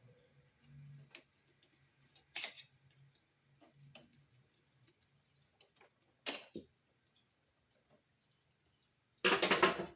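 Hand tools and wiring being handled at a wall receptacle: scattered light clicks and taps, two sharper clicks, then a loud, brief rasping scrape near the end.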